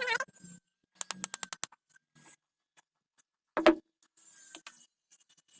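Clicking and knocking of small hard objects being handled: a quick run of about seven sharp clicks, then one louder knock, then a few faint scattered clicks.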